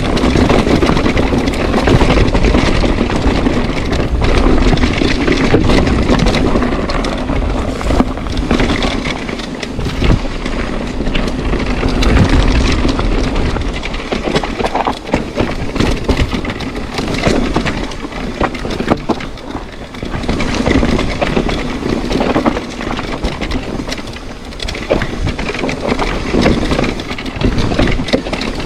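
Mountain bike riding a rough trail: loud steady rushing noise with many short knocks and rattles from the bike over the ground.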